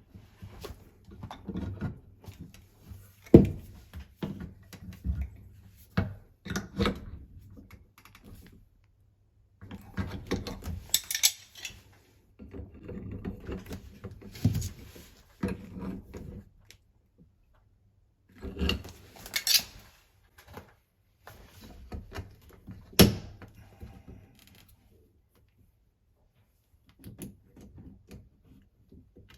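Irregular clinks, knocks and scrapes of metal tools and faucet fittings being handled during a washing-machine tap repair, with a couple of short hissing stretches and one sharp knock a few seconds in.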